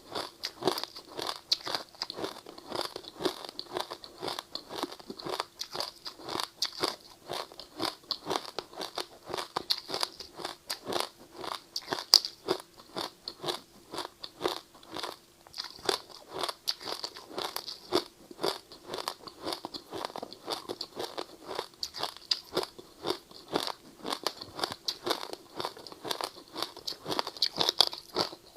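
Ice being bitten and chewed: a steady run of sharp crunches, several a second, with one louder crack about twelve seconds in.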